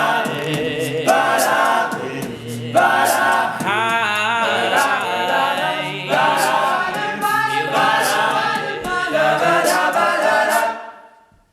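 A cappella vocal group singing a wordless passage in close harmony, several voices holding and sliding between chords, fading out near the end.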